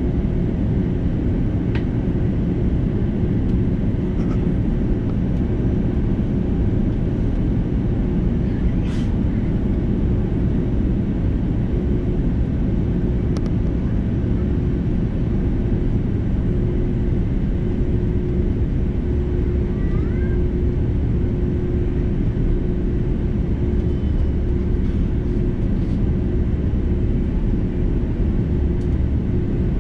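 Steady cabin noise inside an Airbus A330-300 airliner: a continuous low rumble of engines and airflow with a steady hum, and a few faint ticks.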